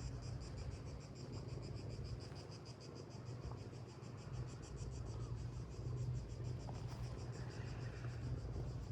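Insects trilling in a fast, even, high-pitched pulse over a steady low rumble.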